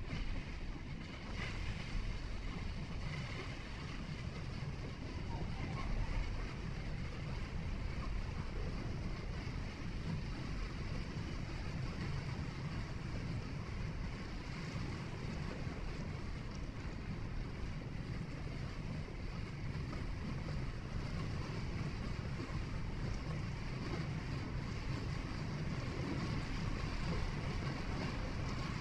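Steady road noise of a vehicle driving: a low rumble of engine and tyres with some wind noise.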